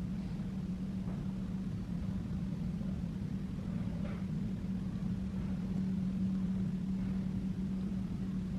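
Vacuum cleaner running with a steady hum.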